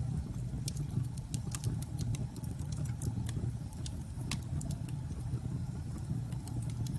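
Fireplace crackling with scattered sharp snaps and pops over a steady low rumble of storm wind.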